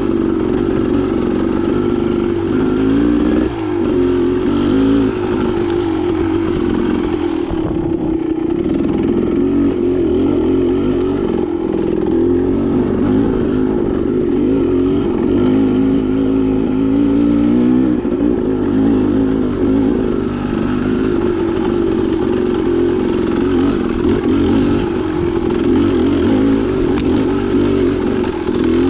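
Dirt bike engine running continuously on a trail ride, the revs rising and falling as the rider works the throttle.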